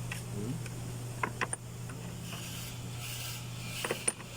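A handful of sharp metallic clicks from hand tools working on a car engine, over a steady low hum.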